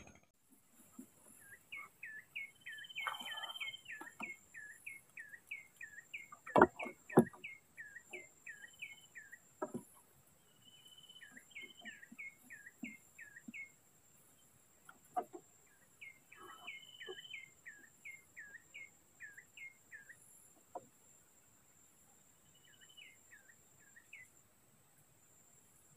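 A bird singing in phrases of quick, repeated hooked notes, some phrases opening with a held note, a new phrase every few seconds. A few sharp knocks fall between them, the loudest two close together about seven seconds in.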